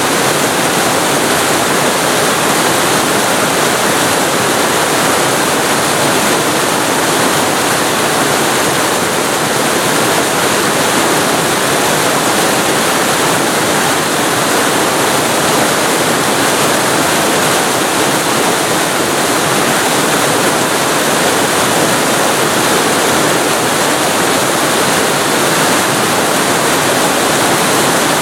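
Waterfall recorded very close to the falling water: a loud, steady rush of water with no breaks or changes.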